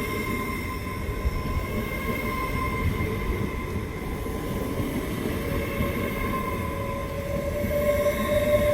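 Passenger train moving through the station: a steady rumble with high steady whines over it, and a lower whine that grows louder near the end.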